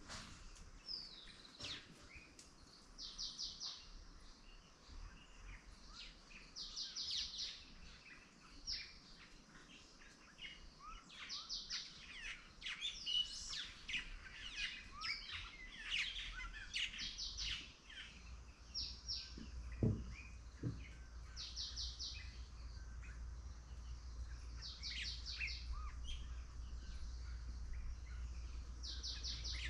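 Several songbirds chirping and singing, one repeating a short buzzy trill every few seconds, with a flurry of chirps in the middle. A low steady rumble comes in past the middle.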